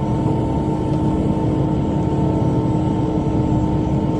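Tractor engine running steadily under load with a rotary cutter (bush hog) turning behind it, a constant drone with a steady whine.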